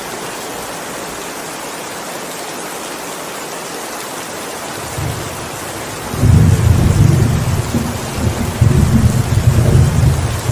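Steady heavy rain hissing, with a roll of thunder that builds about five seconds in and rumbles loudly in surges to the end.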